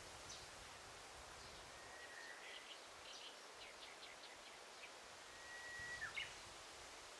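Faint birdsong over a steady hiss of forest ambience: twice a bird holds a long whistled note and then breaks into quick chirps, with scattered short chirps between.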